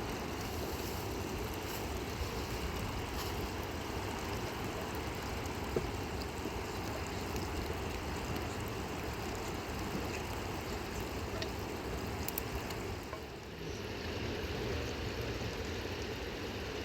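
Steady rush of a fast-flowing river, with a brief dip in level about thirteen seconds in.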